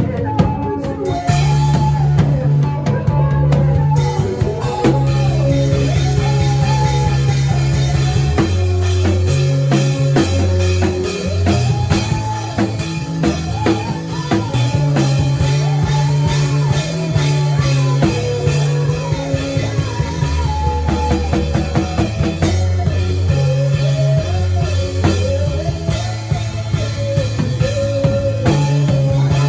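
Music: a drum kit played with many quick hits over a song with a sustained bass line and a gliding sung melody.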